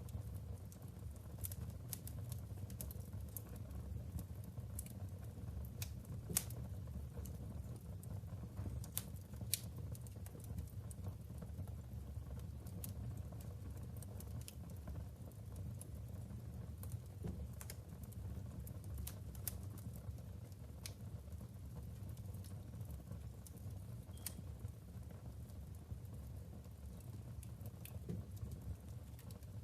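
Wood fire burning in a fireplace: a steady low rumble of flames with irregular crackles and snaps from the logs, a couple of louder pops.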